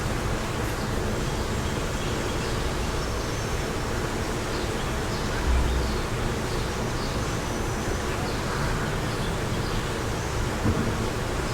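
Steady wind with a low rumble of gusts buffeting the microphone, the strongest gust about five and a half seconds in. Faint short bird chirps sound over it.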